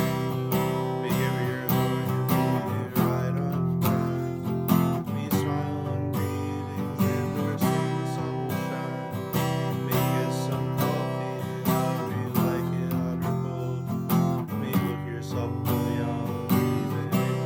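Acoustic guitar strummed in a steady rhythm, playing a song without singing.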